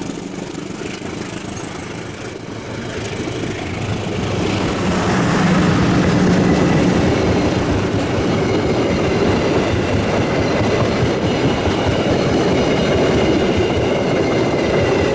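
Passenger train passing close by, its wheels clattering over the rails. The sound builds over the first few seconds and then holds steady and loud, with a faint thin high squeal from the wheels in the second half.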